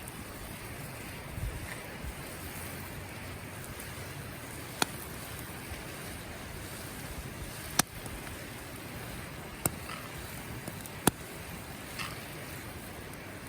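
Wood campfire burning with a steady hiss and a few sharp, isolated pops and cracks from the burning wood.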